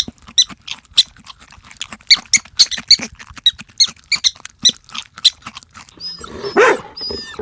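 A small animal's short, high-pitched squeaks, repeated irregularly about two to three times a second. Near the end they give way to a whining cry that glides up and down in pitch.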